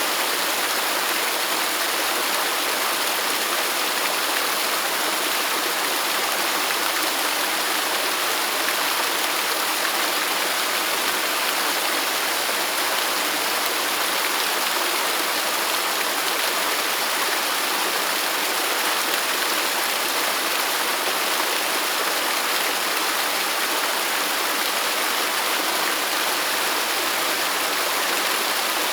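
Waterfall: falling water rushing in a steady, even hiss, mostly high-pitched with little deep rumble.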